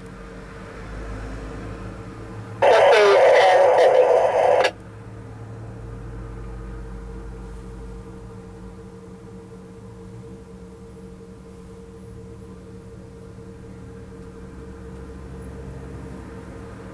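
Excavator engine running steadily at a low hum. About three seconds in, a much louder burst with wavering pitch lasts about two seconds and cuts off abruptly.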